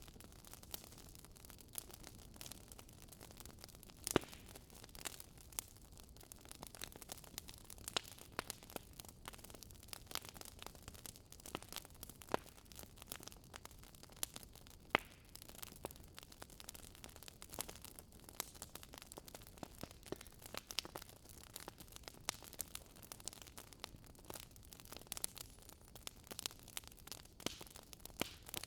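Wood fire crackling in a fireplace: irregular sharp pops and snaps over a soft steady hiss, with louder pops about four seconds in and near the middle.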